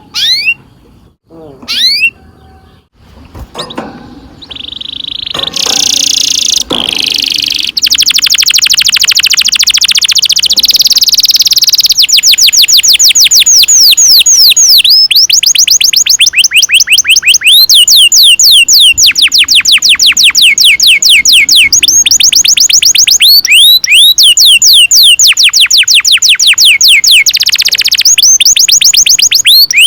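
Domestic canary singing: a few separate chirps, then a long unbroken roll of rapid repeated downward-sweeping notes that starts about a quarter of the way in. The notes come very fast at first, then settle to about five a second.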